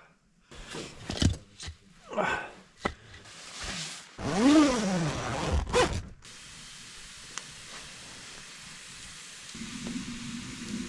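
Firewood being sawn by hand in uneven rasping strokes, one stroke rising and falling in pitch. About six seconds in, this gives way abruptly to a steady low hiss.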